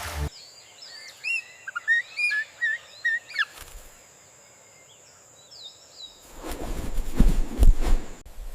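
Bird chirping: a quick run of short whistled notes, each bending up and down, for about three seconds. After a quiet gap with a few faint chirps, a loud rustling noise with low thuds fills the last two seconds.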